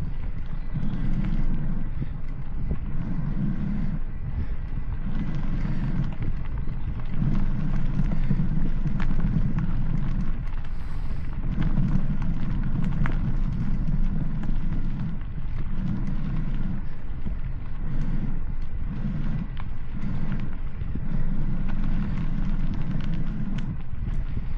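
A vehicle on the road: a low rumble that swells and eases roughly once a second, with scattered clicks and rattles over it.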